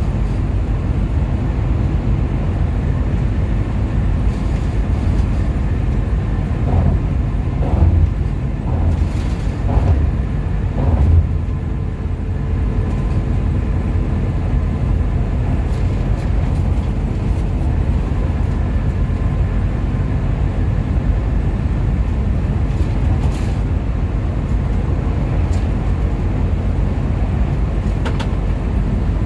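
Hino RM 280-powered bus on the move: a steady low engine and road rumble, with a few short knocks about a third of the way through.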